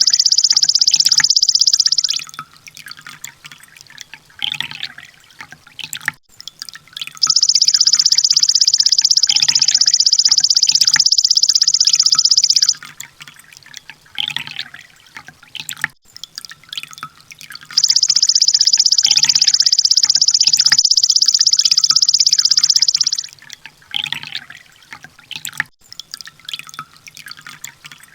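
Small songbird recording: three long, high, very rapid buzzy trills of about five seconds each, repeating at even intervals, with softer short chirps in the gaps between them.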